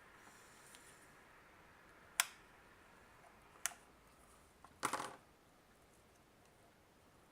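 Sharp plastic clicks from handling a Micronta 22-186 digital multimeter: single clicks about two and three and a half seconds in, then a short clattering cluster about five seconds in.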